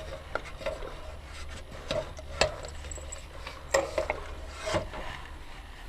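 Scraping and rubbing of metal scooter wheel parts being worked by hand, with a few sharp knocks and clinks.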